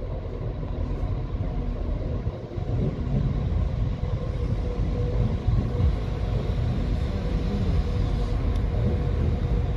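Low, steady rumble of a train approaching the level crossing, with a faint steady hum, muffled through window glass. It grows somewhat louder about three seconds in.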